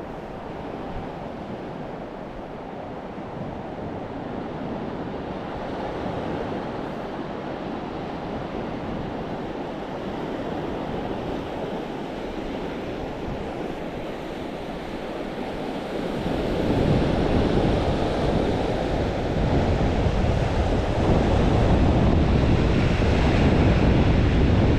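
North Sea surf washing steadily on the shore, mixed with wind. About two-thirds of the way through, the wind on the microphone grows much louder and adds a heavy low rumble.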